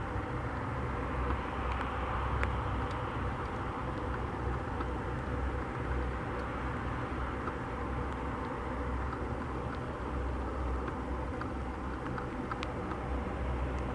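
Steady low rumble with a hiss over it, outdoors at an airport, with a few faint clicks.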